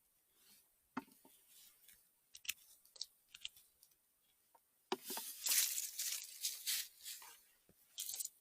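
Rustling and crackling of forest litter and handling while chanterelles are being picked: a few faint snaps, then from about five seconds in a couple of seconds of dense, sharp crackling rustle, and a last short rustle near the end.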